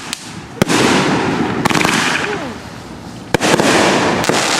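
Consumer fireworks going off. A sharp bang about half a second in is followed by about two seconds of dense crackling and hissing, and a second bang a little past three seconds sets off another burst of crackling.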